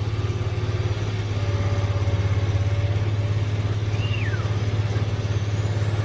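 Engine of a slowly moving vehicle running steadily at low revs, a low pulsing hum. A short high chirp comes about four seconds in.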